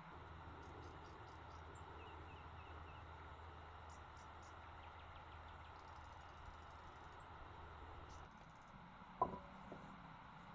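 Quiet steady background with a faint low hum that stops about eight seconds in, then one short, sharp sound that falls quickly in pitch, followed by a fainter second one.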